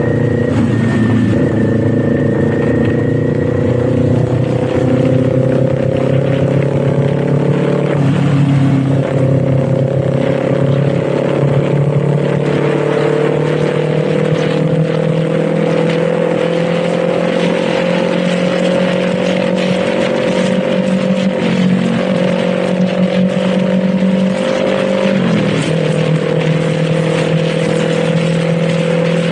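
Kawasaki Z400's parallel-twin engine running on the move, its pitch slowly climbing as the bike picks up speed. It dips briefly three times at gear changes.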